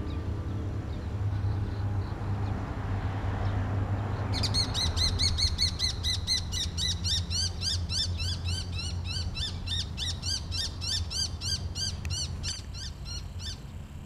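A bird calling a fast series of short, high chirps, about four to five a second, starting some four seconds in and quickening before it stops near the end, over a low steady rumble.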